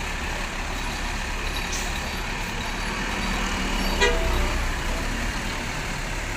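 Diesel bus engines running with a steady rumble, and a short horn beep about four seconds in.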